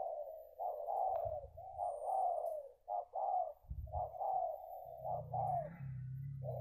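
Spotted dove cooing, a string of repeated short coo phrases with brief pauses between them.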